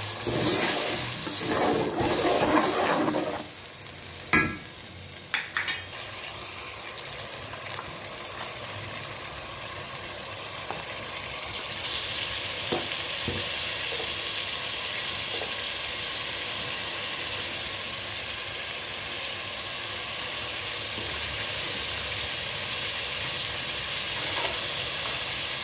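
A spoon stirring and scraping a tomato-onion masala paste frying in oil in a metal pot for the first few seconds, then a few sharp knocks. After that the paste sizzles steadily in the oil, getting a little louder and brighter about halfway through.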